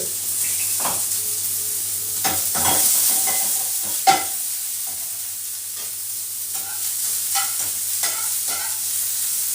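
Food sizzling in a hot pan as it is stir-fried, with a utensil clicking and knocking against the pan; one sharp knock about four seconds in.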